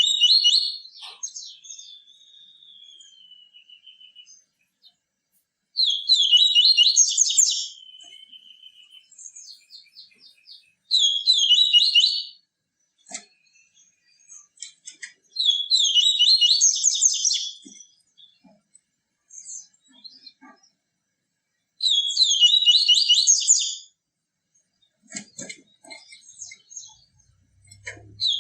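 Papa-capim seedeater singing: a series of fast, buzzy, chattering song phrases of about two seconds each, repeated five times at intervals of about five to six seconds, with a thinner falling trill after the first phrase and faint chips between.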